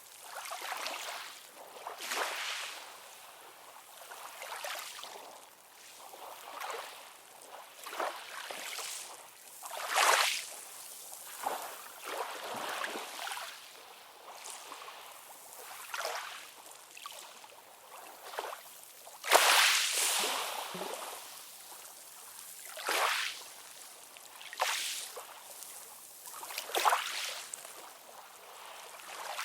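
Small sea waves lapping and splashing, coming in short washes every one to three seconds with little low rumble; one wash about two-thirds of the way through is the loudest.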